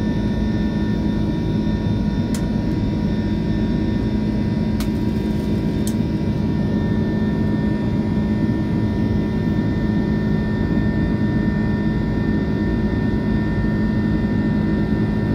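Airbus A330 jet engines and airflow heard inside the passenger cabin in flight: a steady noise with a constant hum, with a few faint clicks a couple of seconds in.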